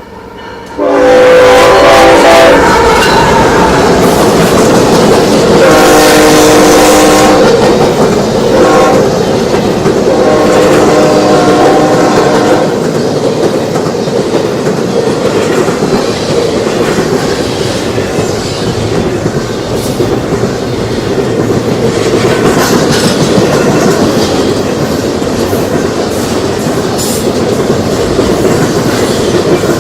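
Locomotive air horn sounding a chord in two long blasts, a short one and a long one, the standard warning for a grade crossing, starting about a second in. After that the train runs by with a steady rumble and clickety-clack of wheels on rail joints.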